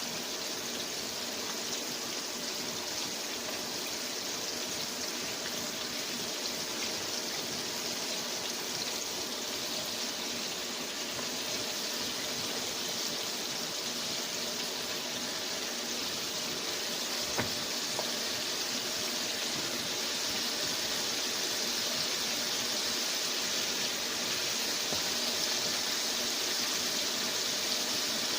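Flour-coated chicken pieces frying in hot oil in a skillet: a steady sizzle, with one small click about two-thirds of the way through.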